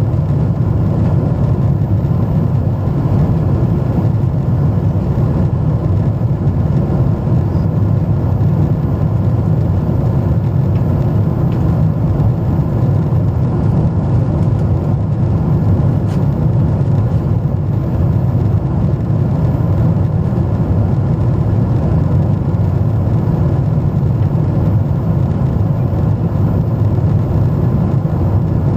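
Steady jet engine and airflow drone heard inside an airliner cabin in flight, even and unbroken, with the engines throttled back for level flight at low altitude.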